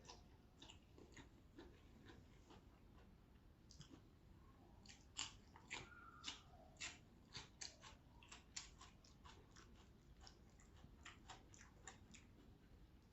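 A person chewing vegetables and rice, with a run of faint crisp crunches that come thicker about halfway through.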